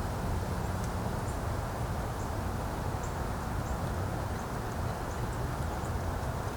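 Steady wind blowing on the microphone, heaviest in the low end, with faint short high bird chirps scattered through.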